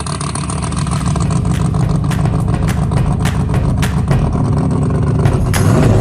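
A 540-cubic-inch ProCharger-supercharged drag-racing engine running loud and steady through its zoomie headers, growing slightly louder toward the end.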